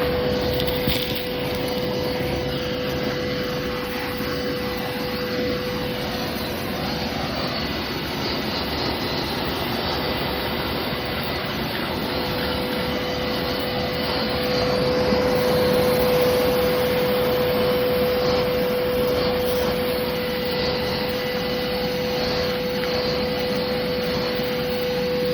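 Shop vac running steadily with a constant whine, vacuuming caked-on dirt from an air-conditioner condenser's coil fins.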